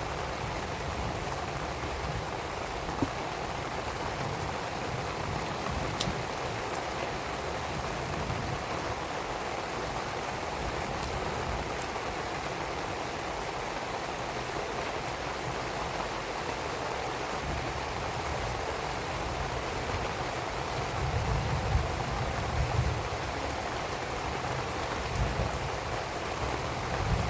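Steady rain falling and pattering on surfaces, with a few faint sharp clicks. Bursts of low rumbling come in over the last several seconds.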